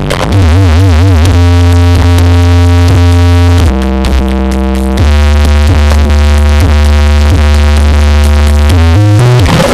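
Loud electronic music on a large carnival sound system, with heavy synth bass. A wavering synth line comes about a second in, followed by long, deep bass notes that change pitch a few times.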